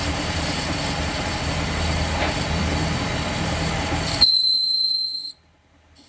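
Loud, steady mechanical din of workshop machinery. About four seconds in, the rumble drops away and a piercing high-pitched metallic squeal holds for about a second, then the sound cuts off abruptly.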